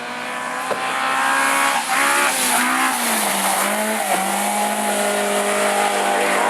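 Several autograss race cars' engines running hard at racing revs, their pitches rising and falling as they race past, over a steady hiss. The sound grows louder over the first couple of seconds and then stays loud.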